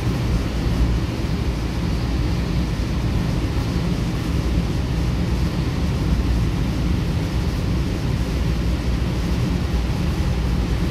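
Steady running noise heard inside a Goninan K-set double-deck electric train at speed: an even low rumble of the wheels on the rails, with no change throughout.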